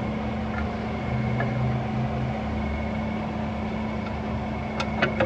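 A steady low mechanical hum with a constant drone, and two sharp clicks close together near the end.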